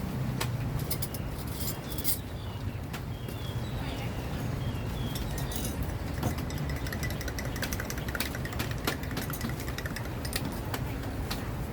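An engine idling with a steady low hum, with scattered sharp clicks and clinks throughout.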